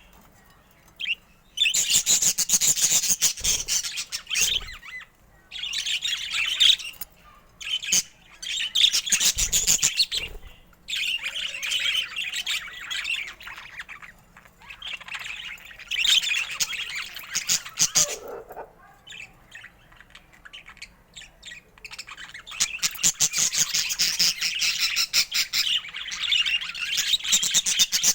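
Budgerigars chirping and chattering in fast, high-pitched bouts of a few seconds each, separated by short pauses; the chatter runs unbroken over the last several seconds.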